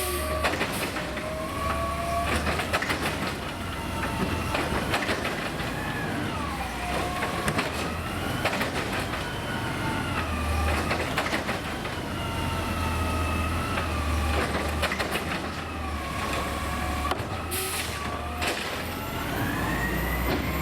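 Autocar garbage truck with a New Way automated side-loader arm working recycling carts: the engine is revved up and down to drive the hydraulics, giving a whine that rises and falls, with repeated bangs and knocks as the arm slams and shakes the carts to empty them.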